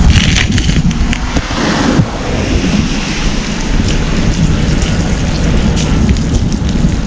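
Steady wind rush buffeting the microphone while riding an electric unicycle, with a dense low rumble throughout.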